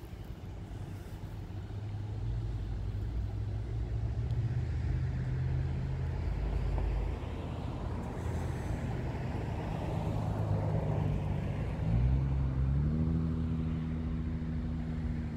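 A motor vehicle's engine running, growing louder over the first few seconds, then rising in pitch about twelve seconds in and holding the higher pitch as it speeds up.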